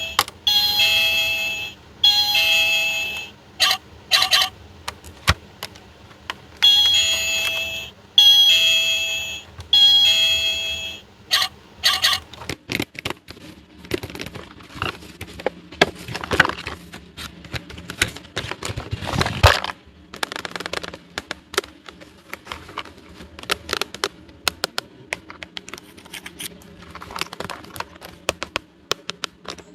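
Electronic chime notes from a battery-powered toy, played in two bursts of four or five ringing notes each. After that come small plastic toy pieces being handled, with scattered clicks, taps and rustling.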